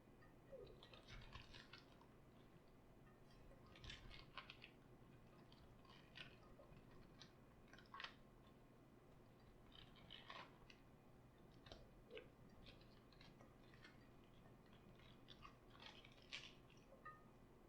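Faint, crisp crunching and crackling of raw cabbage being worked, in irregular clusters every second or two, with an occasional dull thud.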